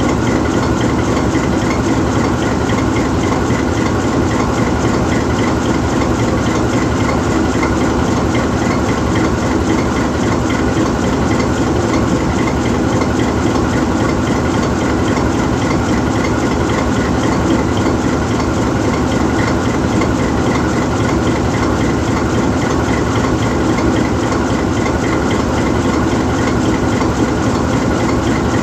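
GE U20C diesel-electric locomotive standing still, its V12 diesel engine idling steadily.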